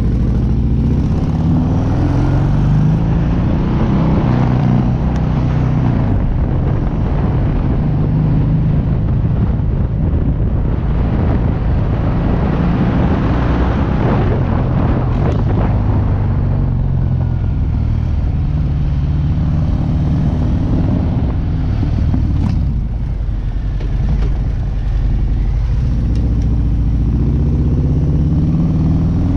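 Harley-Davidson V-twin motorcycle engine pulling away from a stop and accelerating, with wind rushing over the microphone at speed. The engine eases off about two-thirds of the way through, then accelerates again near the end.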